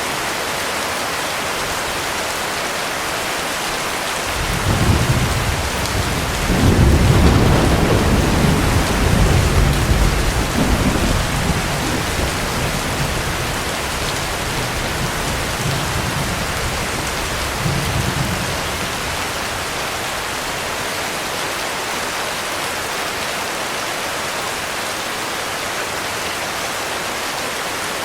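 Steady heavy rain with a long roll of thunder that builds about four seconds in, is loudest around seven to ten seconds, and rumbles away by about nineteen seconds.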